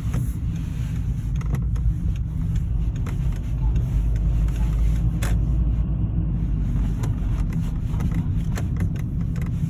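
Cabin noise of a 2004 Seat Ibiza 1.4 automatic on the move: a steady low rumble of engine and road, with a few light clicks.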